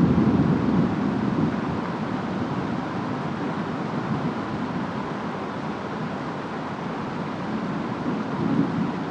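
Steady rain and wind of a storm, with a low rumble of distant thunder that eases over the first second or two and starts to build again near the end.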